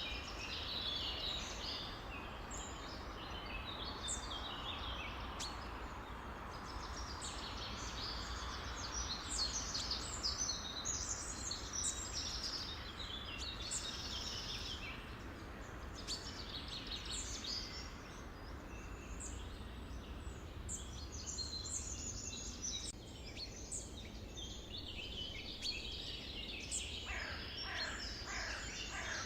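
A dense chorus of many small birds chirping and calling over one another, over a low steady rumble. Near the end a few calls sweep quickly downward in pitch.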